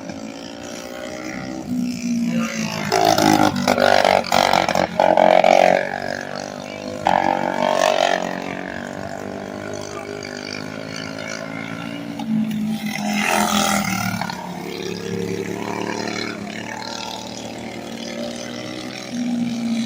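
Small racing kart engines running on the track, their pitch rising and falling as the karts pass. The passes are loudest about three to eight seconds in and again around thirteen seconds in.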